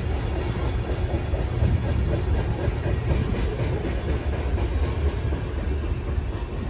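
Freight train cars, tank cars and a covered hopper, rolling past on an elevated track: a steady rumble of steel wheels on rail with some clickety-clack, easing off slightly as the last car goes by near the end.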